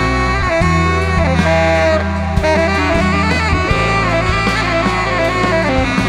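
Live band playing an instrumental section: a saxophone leads a melodic line over bass, electric guitar and a drum kit.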